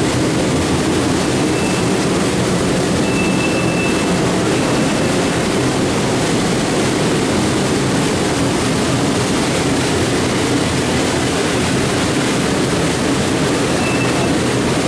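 Passenger train rolling along the track, its wheels on the rails making a steady rumble, heard from an open-sided passenger car. A faint high squeal comes through a few times.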